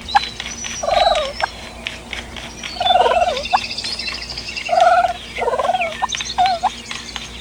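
Wild turkey gobbling, about five rolling gobbles a second or two apart, with higher chirps of small birds behind.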